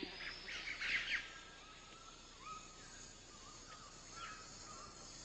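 Rainforest ambience with bird calls: a few loud, sweeping calls in the first second, then short whistled notes repeated over a steady background hiss.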